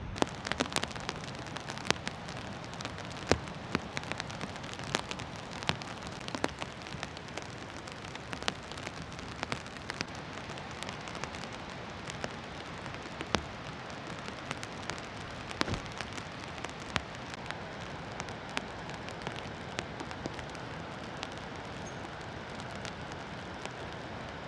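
Steady rain with many separate drops ticking irregularly on a surface.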